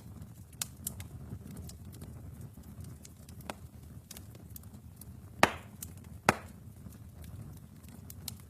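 Wood fire in a fireplace crackling over a low rumble of flames, with scattered small ticks and two loud pops a little past the middle, about a second apart.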